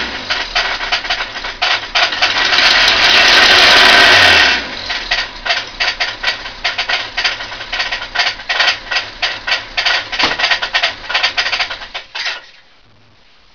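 Ford Capri's 2.0 Pinto inline-four engine running with a rapid, even knocking. It runs louder for the first few seconds, then settles into a steady knock before it is switched off near the end. The owner is unsure whether the knock means a bottom-end failure in the engine or something knocking elsewhere.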